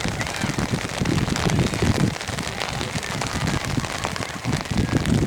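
Steady rain falling, with many sharp drop hits close to the microphone over a low rumble.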